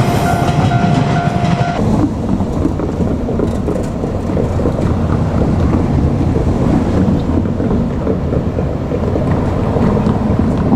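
JR Kyushu 817-series electric multiple unit running past on the rails, a steady loud rumble of wheels and running gear. A steady high tone sounds for the first two seconds or so and then cuts off.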